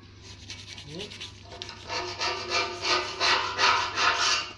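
Hand rubbing strokes against a boiler part, squeaking, about three strokes a second, getting loud about two seconds in.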